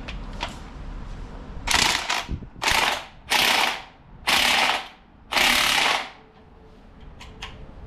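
Ratchet wrench run down on a bolt, five quick ratcheting strokes about a second apart.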